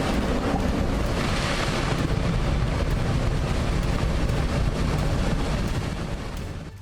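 Storm-driven ocean waves surging and crashing in a steady, loud rush, with heavy wind buffeting the microphone and a low rumble throughout.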